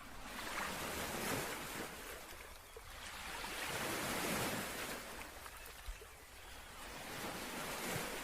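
Small waves breaking and washing up a sandy beach, the surf swelling and fading about every three seconds.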